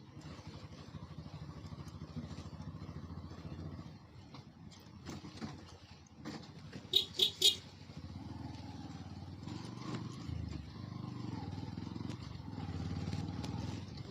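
Motorcycle engine running at low speed, heard through the helmet mic. About seven seconds in, a horn sounds three short beeps in quick succession.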